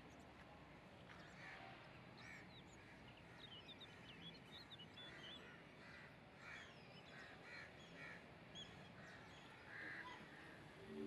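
Faint outdoor bird calls: a series of short, harsh calls repeated at irregular intervals, with small high chirps above them.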